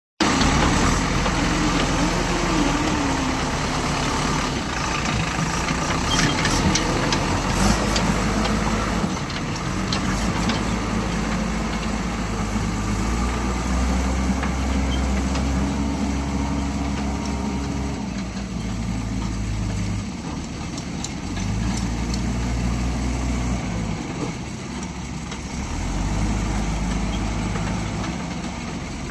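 Diesel engine of a JCB backhoe loader working mud, its engine speed rising and falling again and again as the load changes, with a few knocks about six to eight seconds in.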